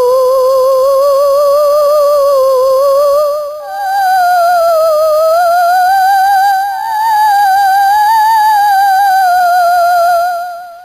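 An eerie, long-held wavering tone with a strong, even vibrato, sliding slowly up and down in pitch. It jumps higher a little over three seconds in, dips briefly twice and fades out near the end.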